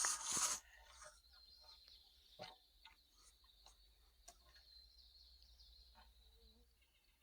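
A brief loud rustling burst of noise, then scattered light knocks and clicks over a faint, steady high-pitched trill from the woods, with the strongest knock about two and a half seconds in.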